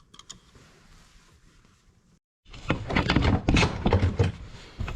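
Faint clicks, then after a brief dropout about two seconds in, loud, rapid, irregular clattering and knocks of objects being handled on a workbench.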